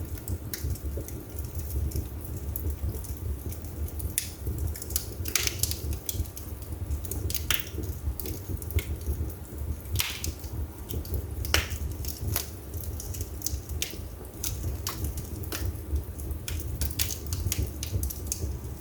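Wood fire burning in a fireplace: a steady low rumble of flames with irregular crackles and sharp pops from the burning wood.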